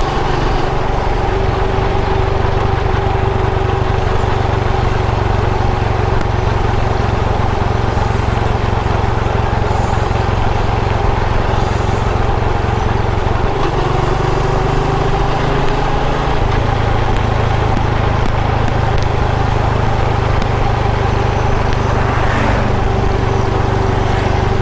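Motorcycle engine running steadily under way, with a constant low rumble beneath the engine hum. The low rumble shifts briefly a little past halfway.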